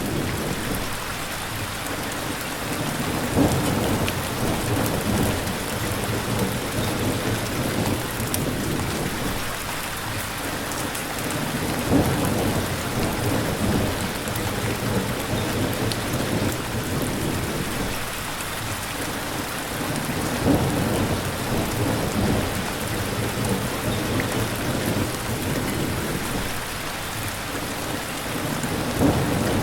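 Steady rain falling, with low rumbles that swell up four times, about every eight seconds.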